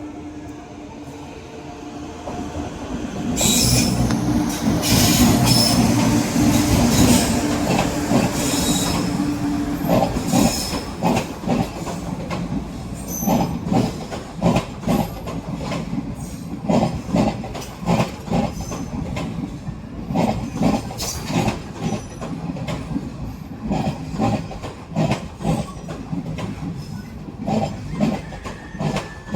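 An Indian Railways train runs through at high speed. First comes a steady low hum and a loud rush, loudest a few seconds in. Then the coaches' wheels clatter rhythmically over the rail joints.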